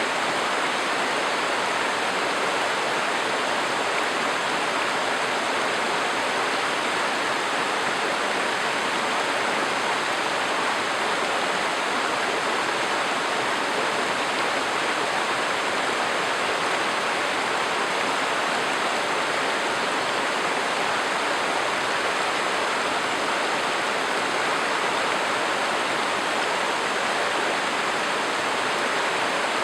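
Steady rushing of a running river, an even, unbroken water noise.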